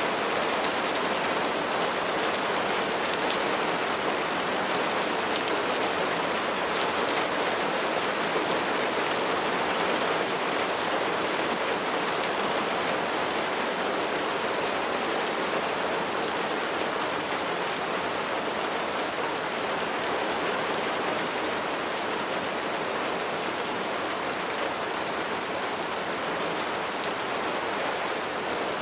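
Steady rain falling on a surface, a dense even patter of raindrops with faint scattered drop ticks.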